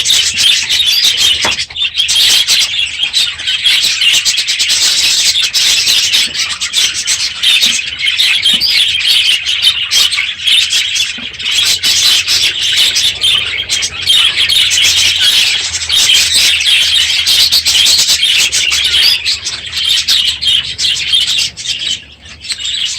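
A large flock of budgerigars chattering loudly: a dense, continuous wall of overlapping warbles and chirps with no pause, easing a little near the end.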